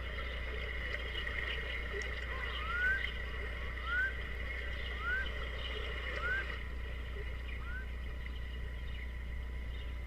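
A bird whistling five short rising notes, about one a second, over a steady background of high ringing tones and a low hum.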